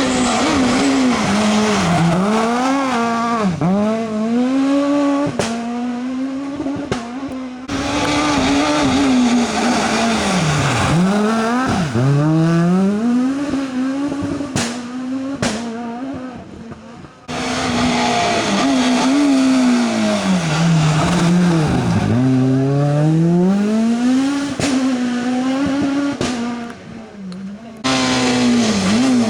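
Rally cars at full stage speed, the engines revving hard and falling away again and again as the drivers shift gear and lift for corners. The sound jumps abruptly about three times as one passage gives way to the next.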